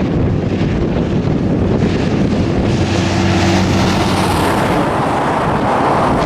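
Diesel-electric freight locomotives running past with a steady engine drone whose hum stands out in the middle. Wind buffets the microphone throughout.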